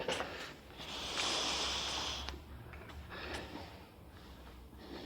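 A person breathing close to the microphone: a long, hissing exhale about a second in, then a few shorter, fainter breaths.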